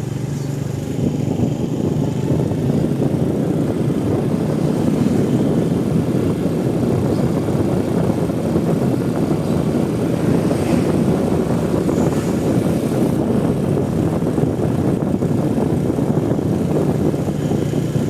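A vehicle engine running steadily, with a continuous low rumble of road and wind noise.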